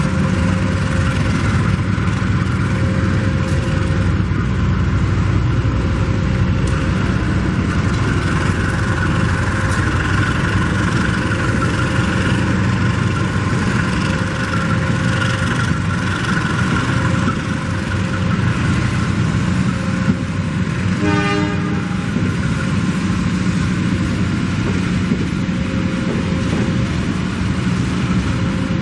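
Diesel train locomotive running with a steady low rumble, with one short horn toot about two-thirds of the way through. A faint short beep repeats every couple of seconds.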